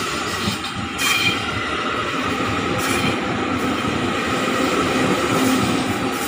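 KRL Commuter Line electric train passing close by: a continuous rumble of steel wheels on rail with a steady whine, and sharp clacks about one and three seconds in.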